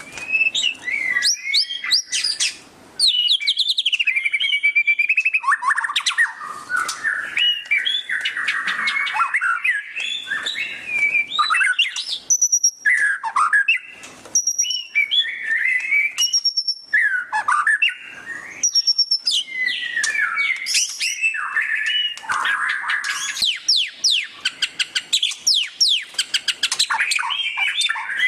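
White-rumped shama (murai batu) singing a loud, varied song in the 'ngeriwik' style: rapid twittering trills, sweeping notes and short whistles in quick succession, broken by brief pauses.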